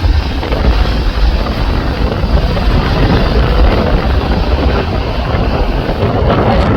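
Strong gale wind buffeting the microphone, with the rumble of an Airbus A330 airliner's jet engines mixed in.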